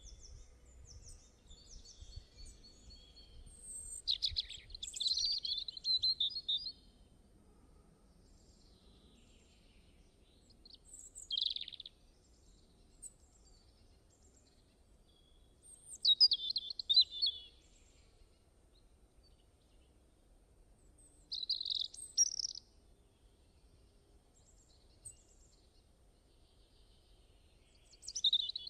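Songbirds singing short, high chirping phrases every few seconds, with quiet gaps between them over a faint low background hum.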